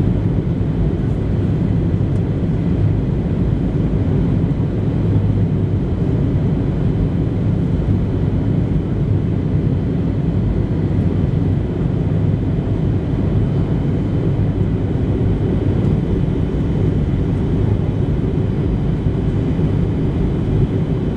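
Steady low rumble inside the cabin of a Boeing 737-700 in flight: airflow and the CFM56-7B engines, with faint steady high-pitched tones above it.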